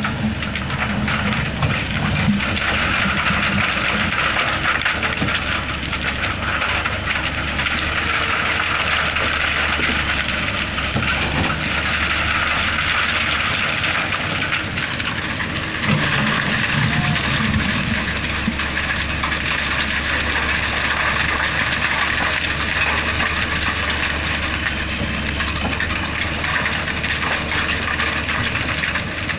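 Excavator running steadily, its diesel engine rumbling under a continuous hiss, with brief swells in the engine note near the start and about sixteen seconds in.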